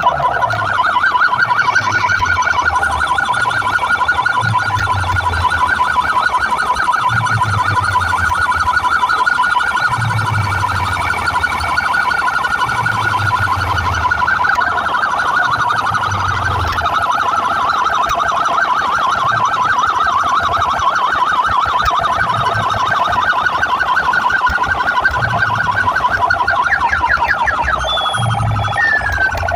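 DJ sound-system speakers playing a loud siren-like electronic warble, a fast trilling tone, over a deep bass thump about every two seconds.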